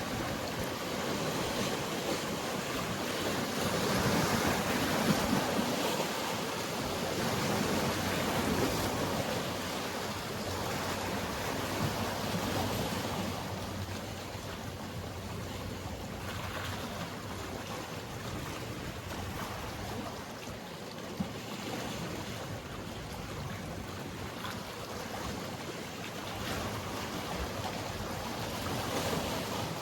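Sea waves washing and surging against the shore, louder in the first half and easing off about halfway through, with a few brief sharp knocks.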